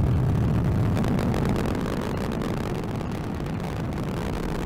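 Atlas V rocket's RD-180 first-stage engine in ascent about a minute after liftoff, heard as a steady low rumble that slowly fades.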